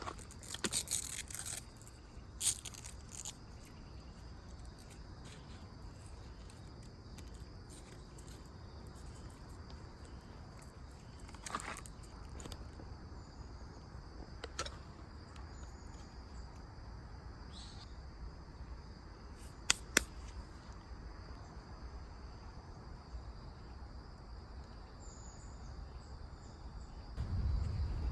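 Insects chirring steadily in a high, continuous drone, with a few sharp clicks and knocks now and then, the loudest a quick pair about twenty seconds in. A louder low rumble comes in near the end.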